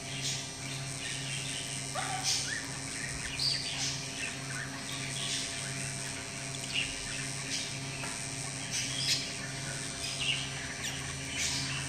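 Short, high bird chirps and squeaks, scattered about one a second, over a low steady hum.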